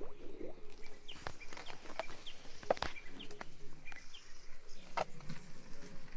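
Farmyard birds chirping in short calls, with a few sharp knocks or taps, the loudest nearly three seconds in and another about five seconds in.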